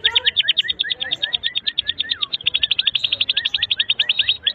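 Domestic canary singing a long, fast trill of rapidly repeated high notes, about a dozen a second, with lower falling whistled notes woven in: canary song of the kind used as a tutor recording for young canaries.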